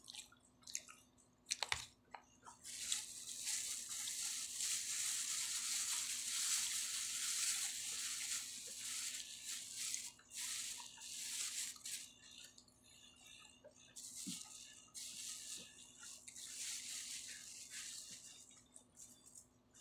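Close-miked mukbang eating sounds: wet, crunchy chewing and mouth noises in long stretches, with a few sharp clicks of a spoon against the plastic rice container in the first couple of seconds.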